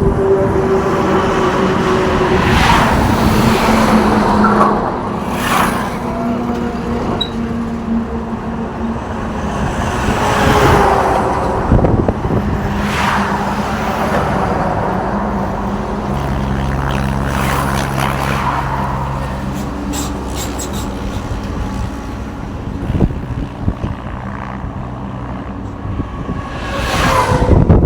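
Trucks driving past on a road, one after another, with a steady engine hum under about six pass-bys; each pass swells and fades, and the loudest comes near the end.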